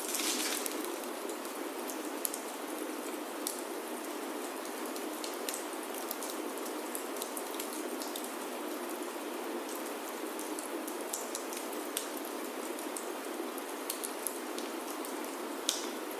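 Steady rain on a wooden chalet roof, mixed with scattered sharp pops and crackles from a wood fire in a fireplace. There is a brief louder hiss at the start and a louder pop near the end.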